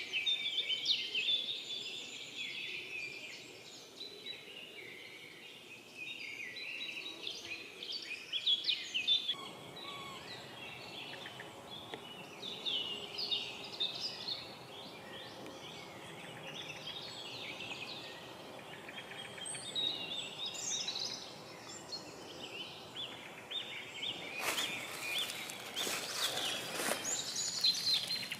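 Spring forest birdsong: many small birds chirping and trilling over a light background hush, with a few sharp crackles near the end.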